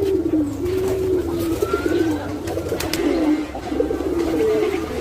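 Biribaj racing homer pigeons cooing without a break, low wavering coos overlapping one another. Two sharp clicks come about three seconds in.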